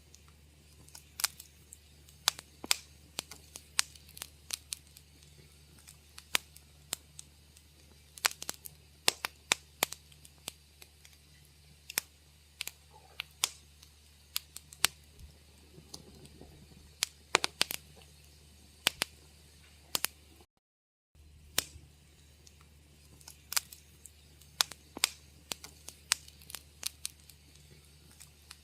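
Wood fire crackling in a fireplace: irregular sharp pops and snaps, several a second, over a low steady hum. The sound cuts out completely for about half a second about two-thirds of the way in.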